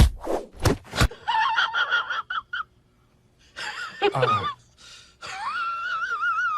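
A cat yowling: several short wavering calls, then one long drawn-out wavering call near the end. In the first second there is a quick run of sharp knocks and rustles.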